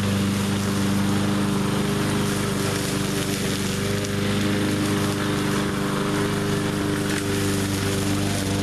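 A 20-inch push mower's small engine running steadily under load, with an even, unchanging pitch.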